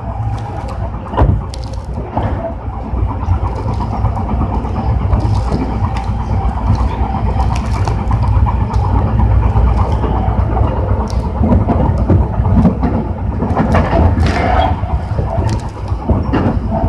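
Tobu 60000 series electric train running at speed: a steady low rumble of wheels on rail, with a few sharp clicks and a faint steady whine over it.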